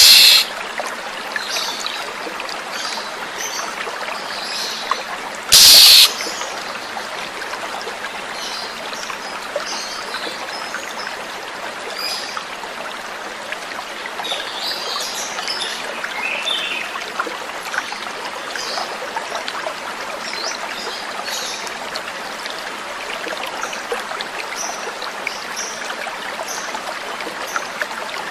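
Flowing stream water trickling steadily, with faint short bird chirps scattered through it. Two brief loud bursts come right at the start and about six seconds in.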